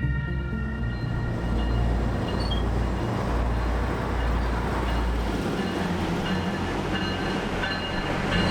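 Passenger train running on the rails: a steady rumble and rattle, with faint high wheel squeals in the second half.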